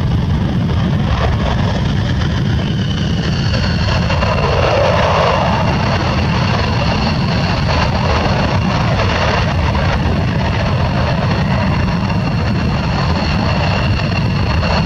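F-15E jet engine running at full afterburner: a loud, steady, deep rumble with a high whine over it. A second, higher whine grows stronger about three seconds in.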